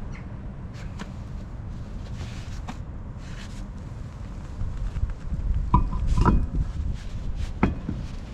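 A few metallic clinks and knocks, a cluster about six seconds in and one more near the end, over a steady low rumble.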